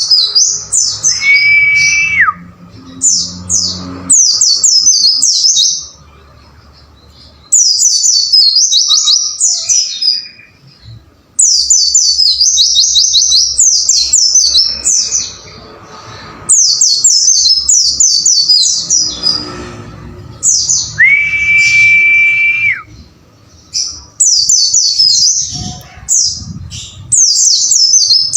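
White-eye (pleci) songbird singing loud, rapid strings of high, downward-sweeping twittering notes, in phrases of a few seconds separated by short pauses. Twice a steady, level whistled tone is held for about a second and a half, then drops away sharply.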